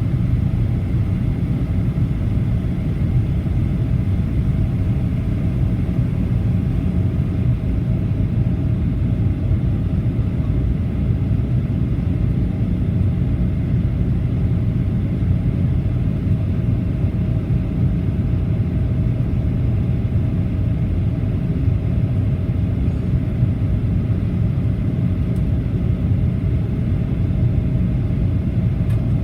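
Steady cabin noise inside a Boeing 737-800 in flight: an even low rumble of airflow and the CFM56 turbofan engines, with a faint steady hum above it and no change in level.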